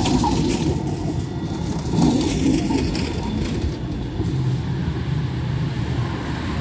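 City tram running past on its rails, a steady rumble of wheels and running gear with a faint motor hum.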